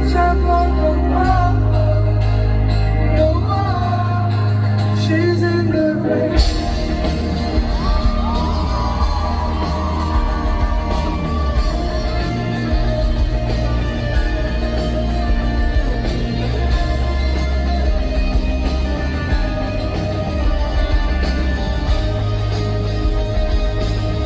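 Live rock band performance in a large hall. Singing over lighter accompaniment at first, then the full band with drums comes in abruptly about six seconds in and plays on with a sustained lead line.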